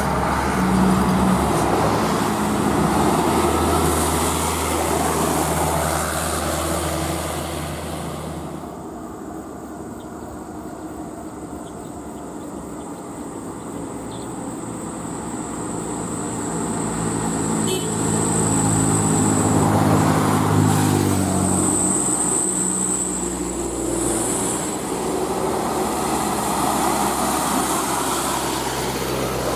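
Heavily loaded truck's diesel engine labouring up a hill, its note rising for several seconds and then dropping about two-thirds of the way through, over road traffic noise.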